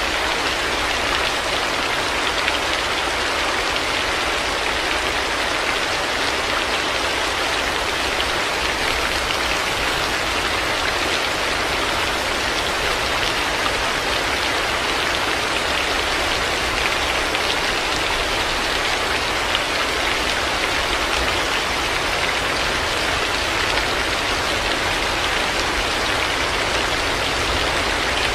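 Heavy rain falling steadily: a dense, even hiss of rain on surfaces, with a low rumble underneath and no breaks.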